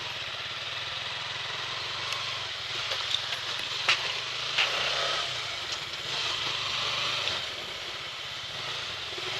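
A vehicle engine running steadily at a low hum, with a few small clicks.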